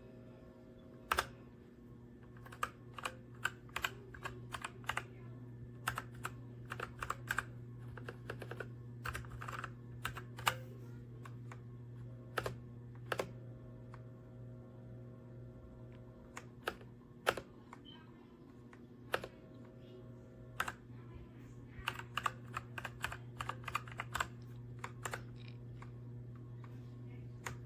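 Typing on a Redragon K617 Fizz 60% mechanical keyboard: irregular runs of sharp key clicks with short pauses between bursts.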